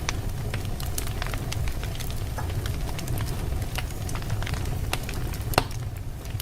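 Wood fire in a fireplace crackling, with scattered sharp pops over a low steady rumble; one louder pop stands out near the end.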